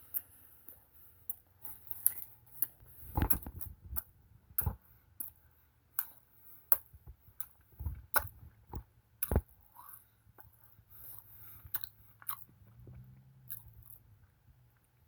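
A person biting into and chewing mouthfuls of a Burger King Original Chicken Sandwich, heard close up as irregular sharp clicks and smacks of the mouth.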